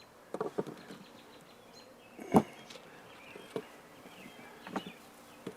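Honey bees buzzing around an open hive, with a handful of short knocks and clunks as hive frames and boxes are handled; the loudest knock comes about two and a half seconds in.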